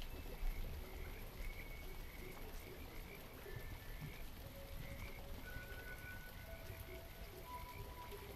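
Steady rain ambience with a low rumble, under slow, soft held tones that change pitch every second or two. Short high chirps repeat about twice a second.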